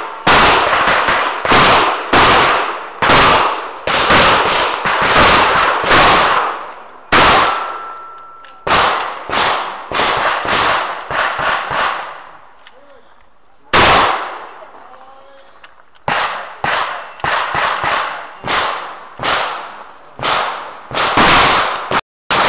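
Shotgun fired in fast strings of shots, several a second, each with a short echo. There is a lull of a few seconds in the middle, broken by a single shot about fourteen seconds in.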